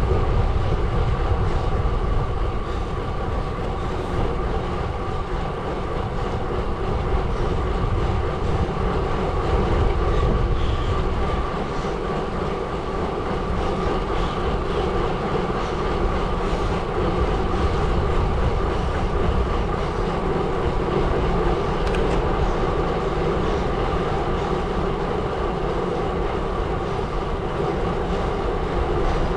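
Gravel bike tyres rolling steadily over a gravel road: a continuous rumble with a steady hum, and wind on the microphone.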